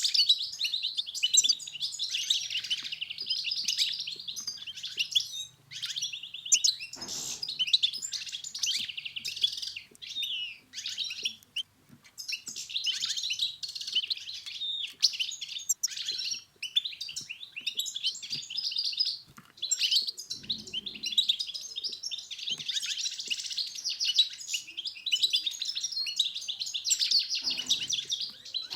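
European goldfinch singing: fast, liquid twittering song delivered in long phrases with brief pauses between them.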